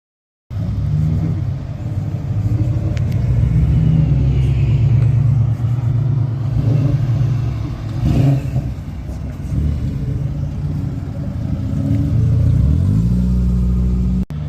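Car engine running with a low-pitched note, its pitch wavering and dropping about a second before the end. It starts abruptly half a second in.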